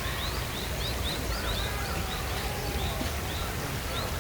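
A small bird calling in a steady series of short, rising high chirps, about two to three a second, over a constant low outdoor rumble.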